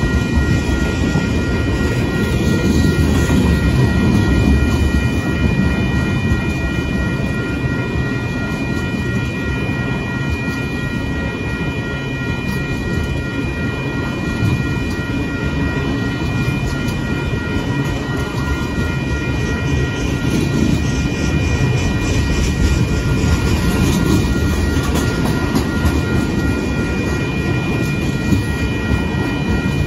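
Union Pacific freight train of tank cars rolling steadily past at a grade crossing: a continuous rumble with the clickety-clack of wheels over rail joints, and a few thin steady high tones above it.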